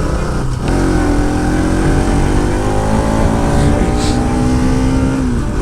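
Motorcycle engine running steadily on the move, its note drifting slowly, with heavy wind rumble on the microphone.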